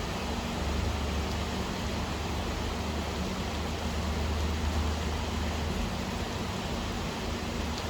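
Steady rain falling, an even hiss with no separate drops standing out, over a low steady rumble.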